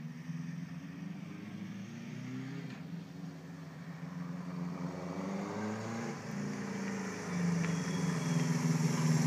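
1978 Honda CB750's inline-four engine through a 4-into-1 exhaust, running as the bike is ridden, its pitch rising and falling with the throttle. It grows louder over the last couple of seconds.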